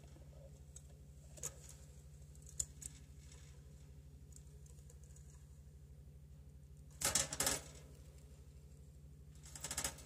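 A pet bird moving about in its clay-pot nest in a wire cage: a few single clicks, then two short flurries of rapid clicking and scratching about seven and nine and a half seconds in. A steady low hum runs underneath.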